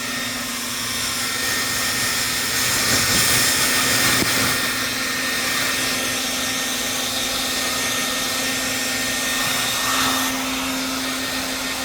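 Handheld hair dryer running steadily: a continuous rush of air with an even motor hum.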